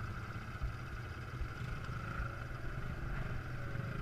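Quad bike engine running at a steady speed, a continuous drone with no change in pitch.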